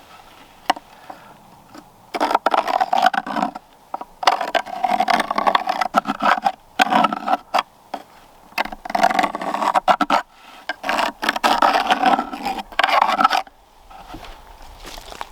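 A hand tool scraping on wood in repeated rough strokes, in runs of a second or two. The strokes start about two seconds in and stop shortly before the end, with a few sharp knocks among them.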